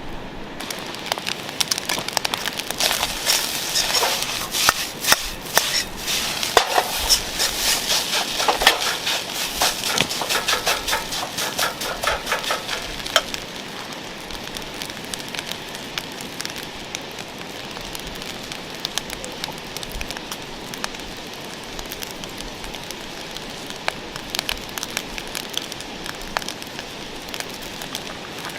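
Campfire cooking: crackling and sizzling with many sharp pops, dense and louder for the first half, then settling to a steadier hiss with occasional pops.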